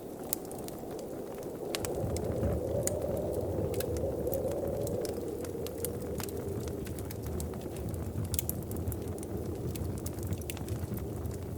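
Wood fire crackling in a fireplace: irregular sharp pops and snaps over a steady low rushing that swells for a few seconds about two seconds in.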